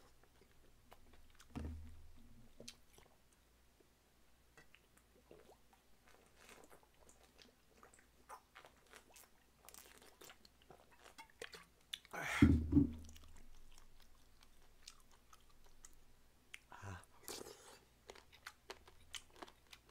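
Close-miked chewing of boiled pig offal, with many small wet mouth clicks. A short, louder sound stands out about twelve seconds in.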